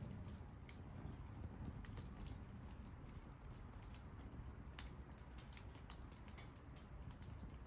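Wood fire crackling, with scattered irregular pops and snaps over a low, steady rumble of the flames.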